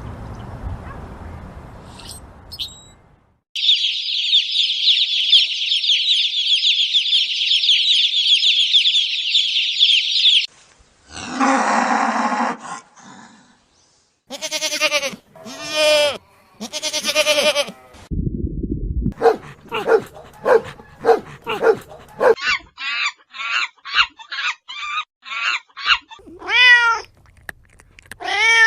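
A run of different animal calls in turn: several seconds of dense high chirping, then a few longer calls, then a quick series of short calls, and two rising-and-falling calls near the end.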